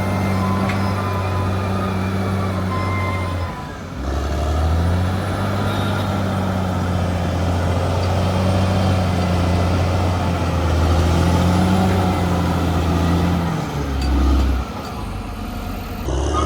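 Bulldozer's heavy diesel engine running under working load. It changes pitch and load in steps, with short drops around four seconds in and near the end.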